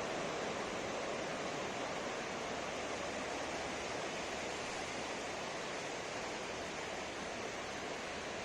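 Ocean surf washing on a beach: a steady, even rush of breaking waves with no distinct crash.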